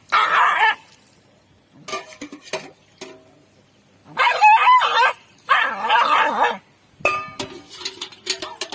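A dog stuck in mud crying out in distress: three loud, high-pitched cries, each under a second long, the second one wavering in pitch. Short clicks and knocks of handling come between them.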